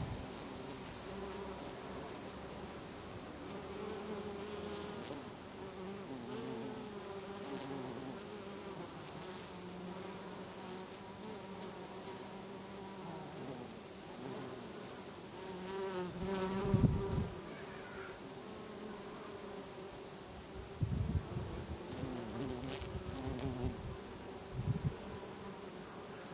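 Many bees buzzing as they work a lavender bed: a dense, overlapping hum of wavering pitches. It swells briefly louder a little past halfway.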